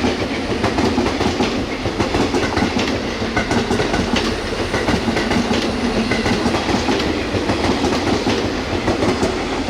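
Electric train running along the track, a steady rush of wheel and running noise with repeated clacks as the wheels cross rail joints.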